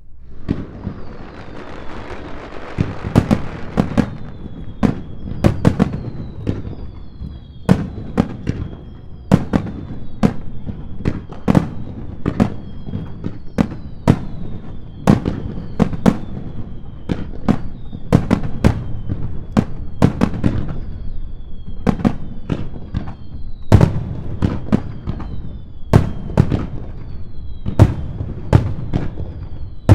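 Fireworks display: a rapid barrage of aerial shell bursts, sharp bangs coming several times a second with a rumbling echo between them, over a run of repeated whistles that each fall in pitch.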